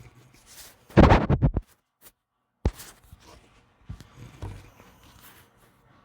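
Pit bull snoring in its sleep: one loud snore about a second in, then a few fainter breaths and small knocks.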